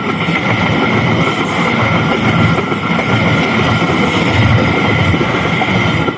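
Progo passenger train passing close by, wheels running and rattling over the rails with a steady high squeal over the rumble; the noise drops away sharply at the very end.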